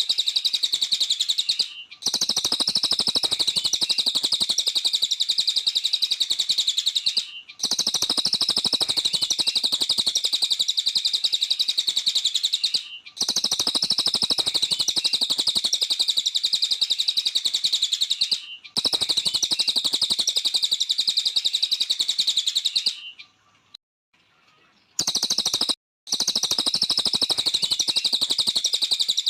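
A songbird known in Indonesia as the cililin singing a rapid, unbroken stream of high chirps. It comes in stretches of about five seconds with brief breaks, and a longer pause of about two seconds a little after the middle.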